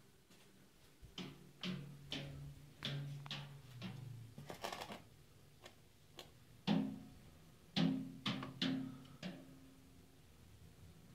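A bird striking metal, making a series of irregular clangs, each with a short low ring. About half a dozen come close together in the first five seconds, and after a pause four or five more follow.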